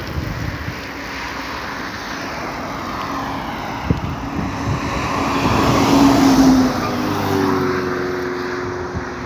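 A motor vehicle passing by: engine and road noise swell to a peak about six seconds in, then fade away.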